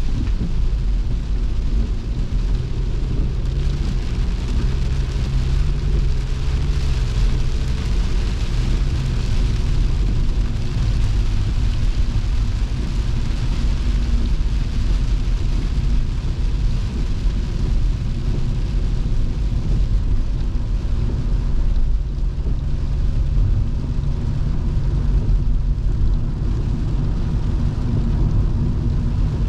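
Volvo V70 2.5T's turbocharged five-cylinder engine and road rumble heard from inside the cabin, with the steady hiss of rain and wet tyres. The engine note shifts in pitch during the first ten seconds or so.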